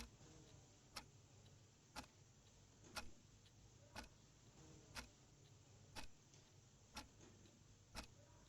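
A clock ticking faintly, one sharp tick every second, over quiet room tone.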